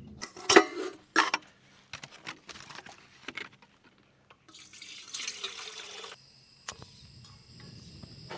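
Water being poured or splashed, with a spell of pouring noise lasting about a second and a half past the middle, among sharp knocks and clinks of camp cookware being handled. The loudest knocks come about half a second and a second in.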